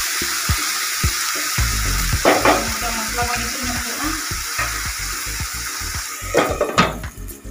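Curry masala sizzling as it fries in oil in a nonstick kadai, with a spatula scraping through it a few times. Background music with a steady beat plays under it.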